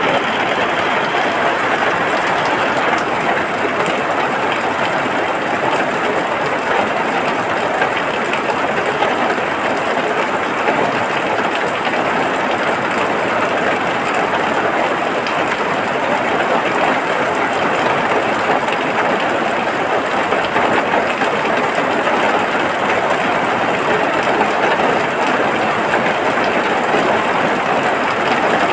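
Rain falling steadily, an even, dense hiss that does not let up.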